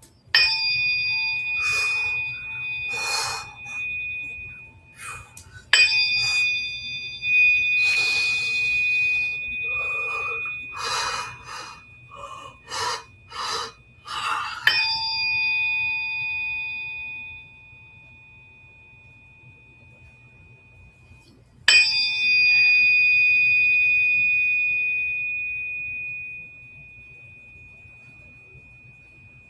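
Tuning fork struck four times, each strike ringing out in a long, steady high tone that slowly fades. Short rustling noises come between the strikes in the first half.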